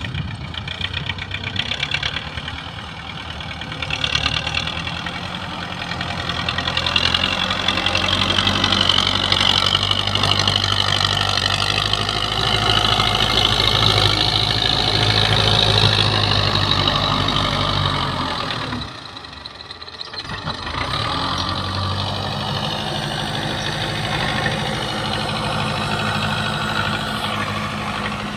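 Belarus tractor's diesel engine running steadily, its revs dropping off about two-thirds of the way through and climbing back a couple of seconds later.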